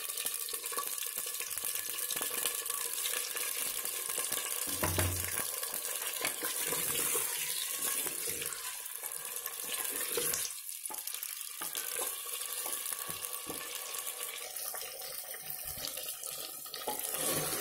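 Chicken pieces sizzling as they fry in hot oil in a clay handi, a steady frying hiss, turned now and then with a wooden spoon. There is a soft knock about five seconds in.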